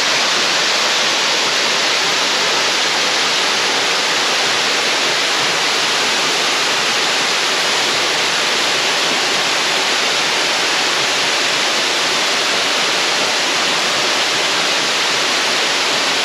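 Ellinjaa Falls waterfall pouring into its pool, a loud, steady rush of falling water.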